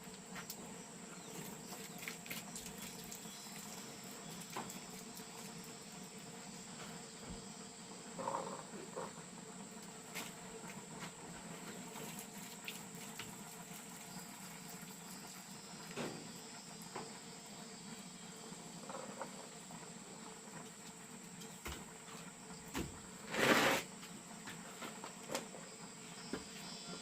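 Steady high-pitched insect chirring in the background, with scattered small clicks and knocks and one brief louder rustle a few seconds before the end.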